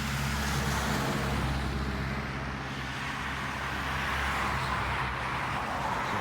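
Road traffic: a steady rush of cars driving past, getting louder about a second in and again around four seconds in.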